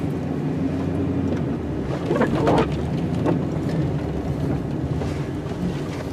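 Plow truck engine running with a steady low drone as the driveway is plowed, with a short, higher-pitched whine a little over two seconds in.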